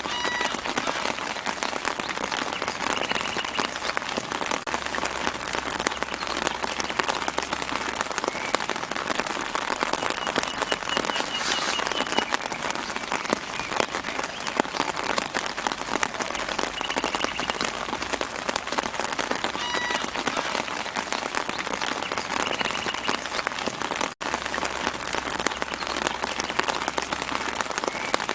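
Steady soft rain pattering on leaves and ground, a dense patter of drops, with a few faint short bird chirps in the background. The sound drops out for an instant near the end.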